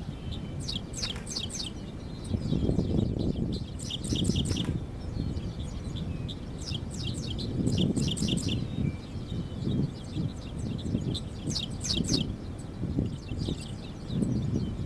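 Small birds chirping in quick runs of several high notes, repeating every few seconds, over an uneven low rumble of wind on the microphone.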